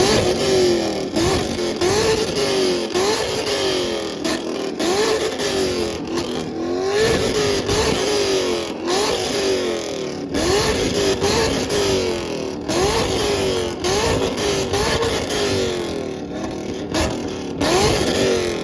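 A car engine revved over and over, its pitch climbing sharply and dropping back roughly once a second in rapid blips.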